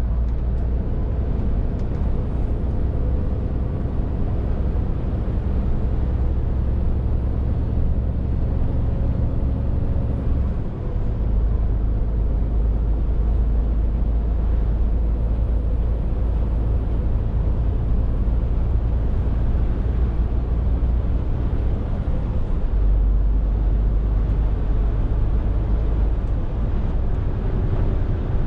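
Scania R450 lorry's 13-litre straight-six diesel running under way with road noise, a steady deep rumble. The engine note changes twice, about ten seconds in with a short dip in level and again about three quarters of the way through.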